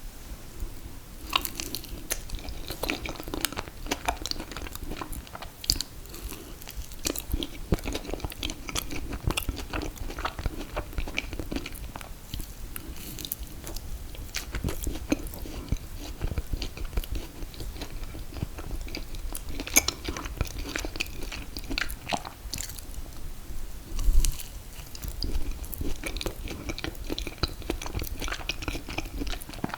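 Close-miked chewing and biting of ice cream cake: a steady stream of wet mouth sounds and small sharp clicks and crunches, with one louder crunch near the end.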